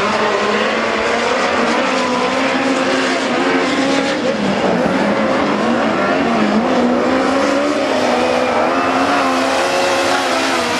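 A pack of speedway midget race cars running together, several engines rising and falling in pitch at once.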